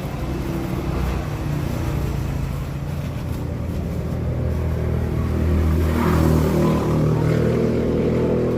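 A motor vehicle's engine running close by, its hum rising and growing louder about six seconds in.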